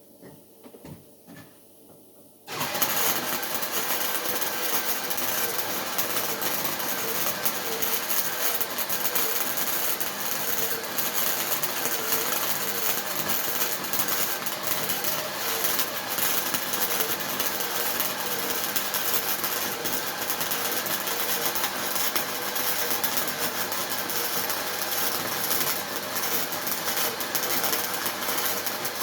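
Welding arc crackling steadily, starting abruptly about two and a half seconds in after a few faint clicks, with a faint steady hum underneath.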